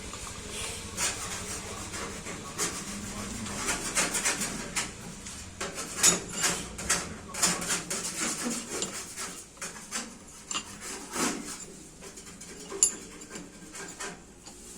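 Irregular scraping, rubbing and sharp clicks of hand work on metal machine parts, with the loudest clicks about six and thirteen seconds in.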